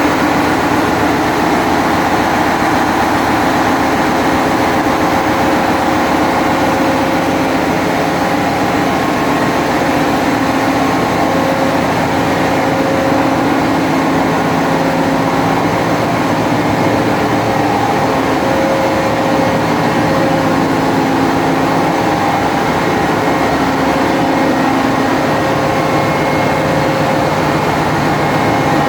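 Loud, steady din of machinery running in a tanker's engine room: dense noise with several steady hum tones held throughout.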